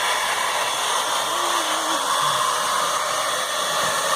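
Handheld hair dryer running steadily: an even, continuous blowing hiss.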